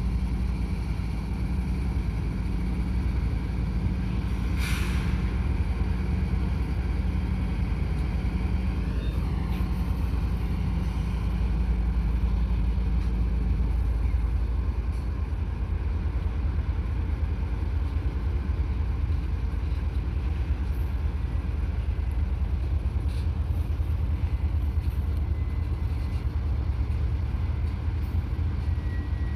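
Diesel-electric freight locomotives running, a steady low rumble, with a couple of brief sharp clicks.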